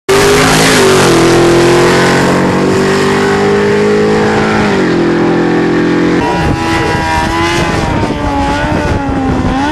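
A drag car's engine at full throttle down the strip, its note stepping down twice as it changes gear. About six seconds in it gives way to a drag motorcycle's engine revving up and down on the start line during a burnout.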